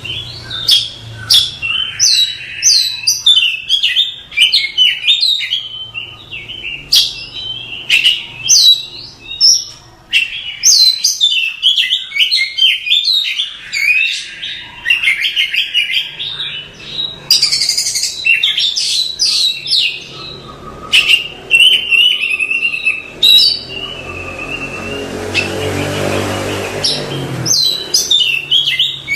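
Oriental magpie-robin singing a rapid, varied song of whistles, chirps and trills without a break, with a brief rushing noise near the end.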